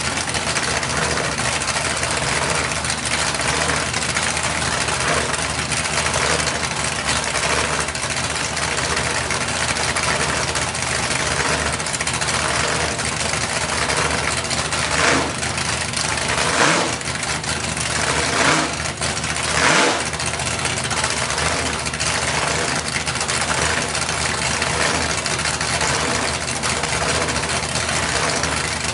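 Two big-block V8 hot rods idling together: a supercharged big block on open headers and a 454 through bullet mufflers. There are four short revs between about 15 and 20 seconds in.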